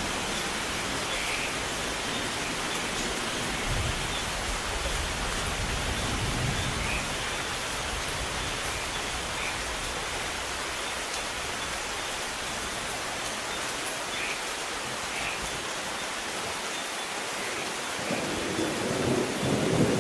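Steady rain with distant thunder rumbling low in the background. A louder roll of thunder builds near the end.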